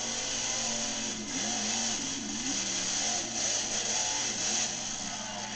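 Monster truck engine revving, its pitch rising and falling again and again over a dense, loud noise.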